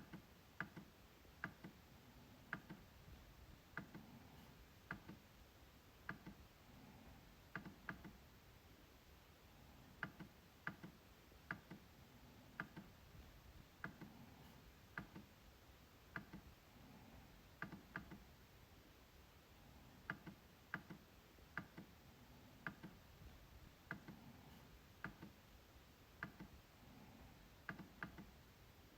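MacBook trackpad being clicked: sharp clicks at an uneven pace, roughly one a second, often in quick pairs.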